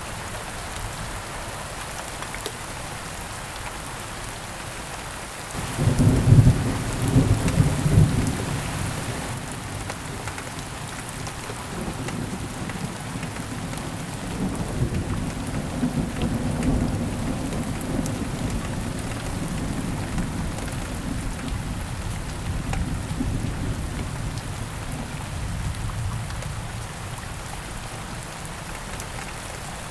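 Steady rain falling, with a thunderclap about six seconds in, loudest over the next two seconds, then low rolling thunder rumbling on and slowly fading over the next twenty seconds.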